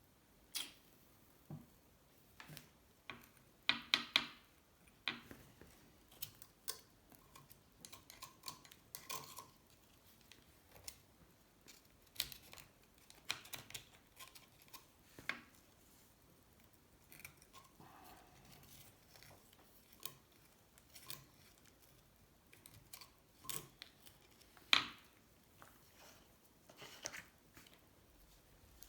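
A metal hand tool scraping and clicking irregularly against aluminium engine cases, digging out caked oily sludge and sand.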